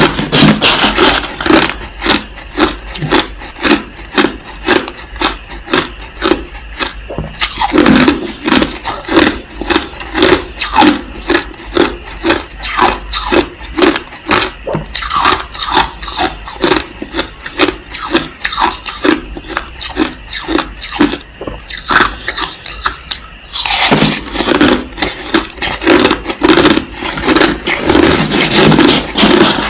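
Crushed ice being chewed close to the microphone: a steady run of loud, crisp crunches, about three a second, with denser grinding crunches near the start and again for the last few seconds.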